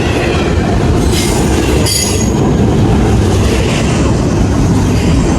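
Train cars rolling past close by in a loud, steady rumble, with a brief high wheel squeal about two seconds in.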